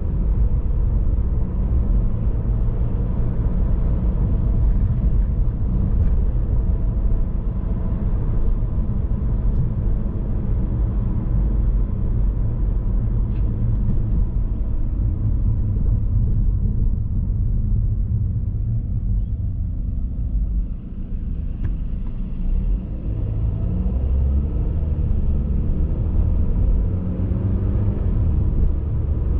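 Car on the move: steady low road and engine rumble, with a brief dip in loudness about two-thirds of the way through.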